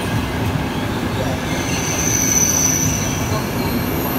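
ETR 500 Frecciarossa high-speed train carriages rolling past, a steady rumble of wheels on rail. A thin, high wheel squeal rises about a second and a half in and fades a second or so later.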